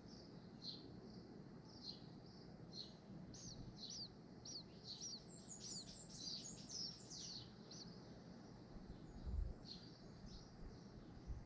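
Small birds chirping faintly: many short, high, downward-sliding notes in quick irregular runs, with a few low thumps near the end.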